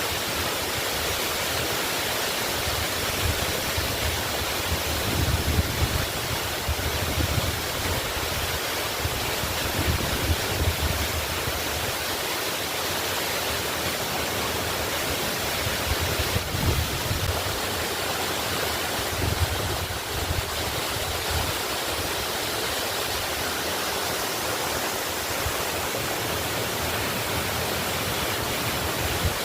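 Waterfall rushing in a steady, even roar of falling water, with irregular low rumbles now and then.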